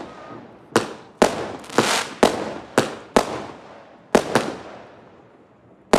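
Fireworks going off: a quick series of sharp bangs, roughly two a second, each fading out in a smear of echo, then a lull before one more bang near the end.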